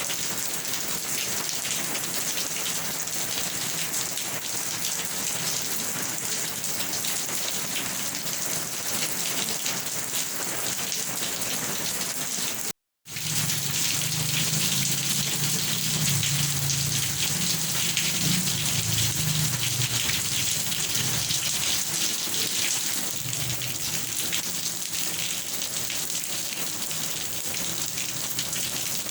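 Steady, heavy rain hissing on a surface. About 13 s in it cuts out completely for a fraction of a second, then resumes with a low rumble underneath for several seconds.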